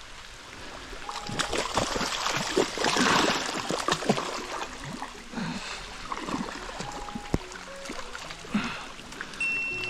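Water splashing and trickling in irregular bursts, with knocks and rustles, as a hooked gar is pulled in and handled at the water's edge.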